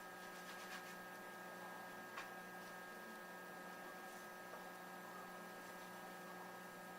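Faint, steady electrical hum with light background hiss, and a small click about two seconds in.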